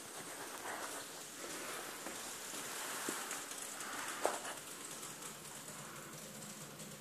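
Wood fire crackling in a fireplace: a steady hiss with scattered pops and snaps, the sharpest a little after four seconds in.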